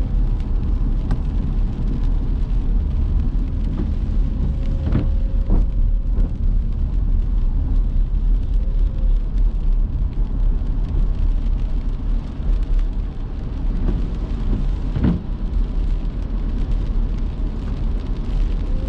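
A car driving on a wet road in the rain: a steady low rumble of engine and tyres under the hiss of rain and spray. There are a few short thumps about five seconds in and again near fifteen seconds in.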